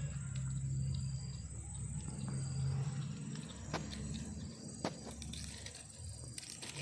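Kitten growling low in bouts over its food, the angry warning of a cat disturbed while eating, with two sharp clicks partway through.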